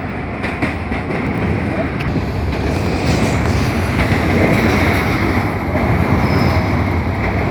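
A train rolling past on the rails: a steady, loud rumble with faint clicking of the wheels, swelling slightly around the middle.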